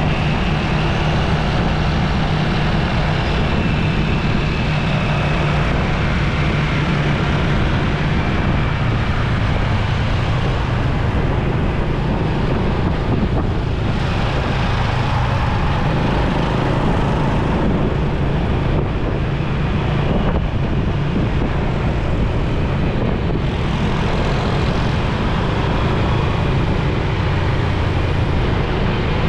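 Motorcycle riding through road traffic: steady engine hum and a heavy low rumble of road and traffic noise, unbroken throughout.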